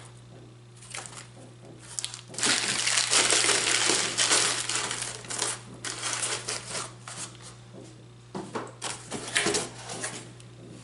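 Packing material being rustled and crinkled while a new miter gauge is unpacked from its box, with a dense stretch of crinkling in the first half followed by scattered rustles and light knocks.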